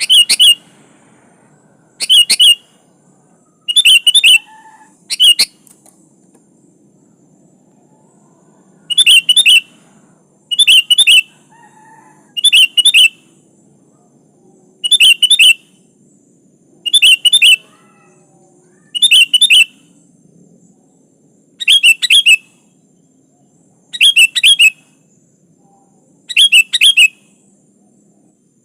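Sooty-headed bulbul (kutilang) giving short, loud calls of two or three quick bubbling notes, about thirteen of them, roughly one every two seconds, with a longer break after the fourth. It is the bird's challenge call to a rival.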